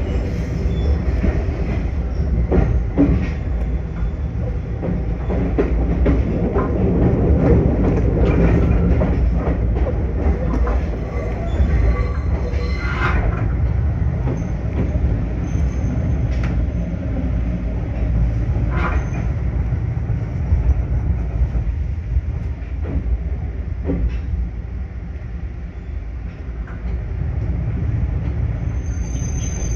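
Electric train heard from the cab, running slowly over station points and rail joints into a terminus with repeated wheel clicks and a brief squeal about halfway, then braking to a stop.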